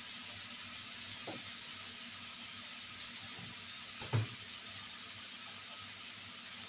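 Beef and sliced onions frying gently in a stainless steel wok, a steady sizzling hiss. A brief soft knock sounds about four seconds in.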